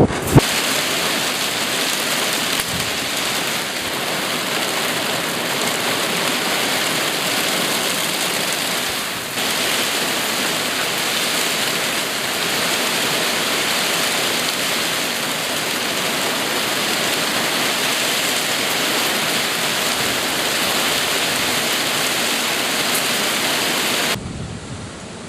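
Heavy typhoon rain pouring down in a steady, even hiss that stops abruptly about a second before the end.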